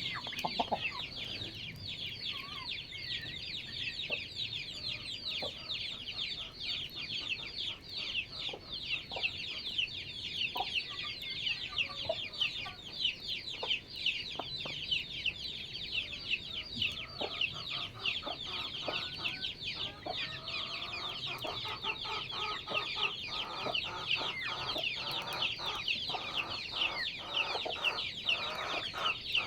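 Backyard chickens calling: a dense, continuous high-pitched peeping chorus, with lower clucks joining in more often in the second half.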